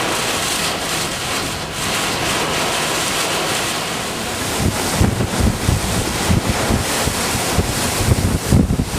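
Strong storm wind gusts blowing as a loud, steady hiss, with heavy wind buffeting on the microphone from about halfway through.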